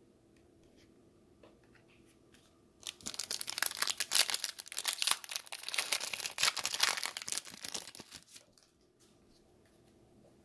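A trading-card pack wrapper being torn open and crinkled by hand. After about three seconds of quiet comes some five seconds of dense, crackly tearing and crumpling, which stops about two seconds before the end.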